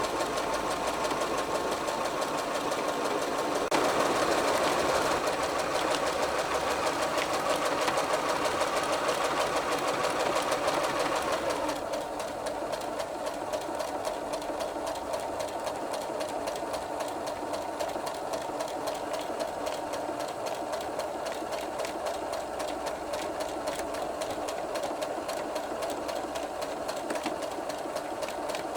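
Electric sewing machine running continuously, stitching thick fabric with a fast, even mechanical rhythm. It runs louder from about four seconds in until about twelve seconds, then carries on more quietly and steadily.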